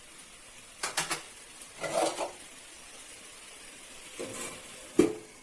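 Metal cookware clinking against a kadai (Indian wok): four separate knocks with a short metallic ring, the loudest near the end.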